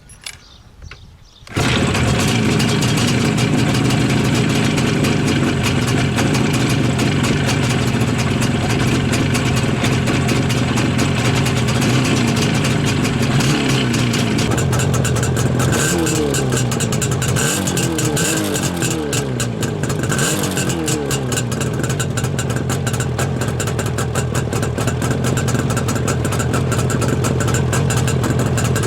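IZh Jupiter 5 motorcycle's two-stroke twin-cylinder engine starting up about two seconds in and running steadily. It is revved up and down several times in the middle, then settles back to a steady idle.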